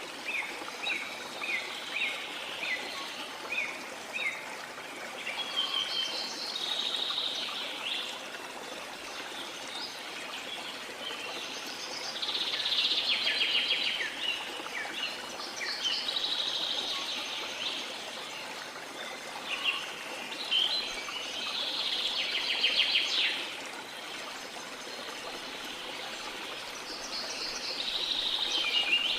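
Birds singing and calling over the steady rush of a flowing river. A run of short falling chirps comes first, followed by repeated buzzy, trilled phrases.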